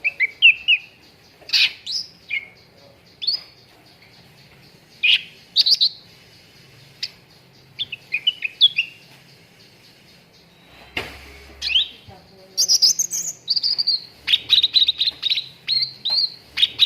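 Cucak ranting songbird calling: short, sharp chirps and quick whistled notes in scattered phrases with pauses between them, breaking into a fast run of repeated chirps over the last few seconds.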